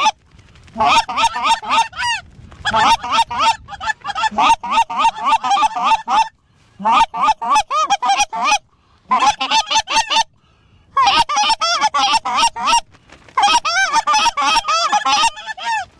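Light goose (snow goose) calls: rapid series of high, yelping honks in bursts of one to two seconds, separated by short gaps.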